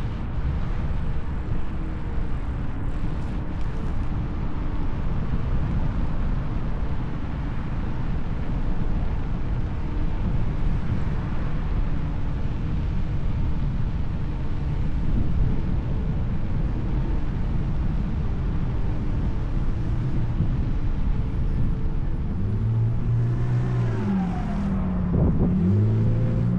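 Wind and rolling noise of a ride on a Kugo Kirin U2 (KingSong 16S) electric unicycle, with a faint steady whine. A few seconds before the end, a louder low hum comes in and its pitch bends up and down.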